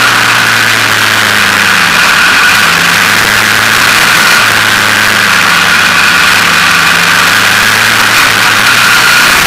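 KTM motorcycle engine running steadily, its pitch shifting only slightly up and down.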